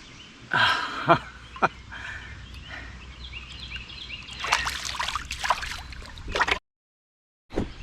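Water splashing and sloshing as a hooked channel catfish is brought up beside a canoe, with a few sharp knocks in the first couple of seconds and heavier splashing in the second half. Birds chirp in the background.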